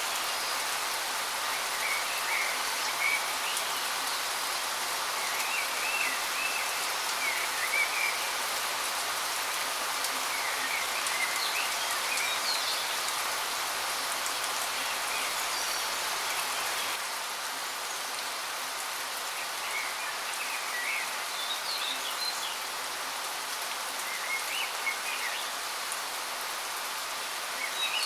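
Steady hiss of falling water from a waterfall, with birds chirping in short bursts on and off over it.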